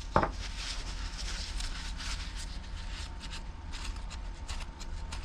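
Handling noise of small parts being worked by hand: a short knock just after the start, then a run of irregular light clicks and rustling, over a steady low hum.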